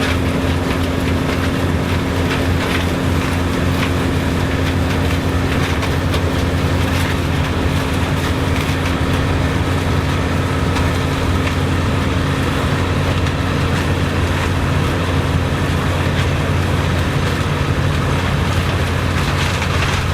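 Vintage farm harvesting machinery running steadily: an engine's constant low drone that holds its pitch throughout, with faint mechanical clicking over it.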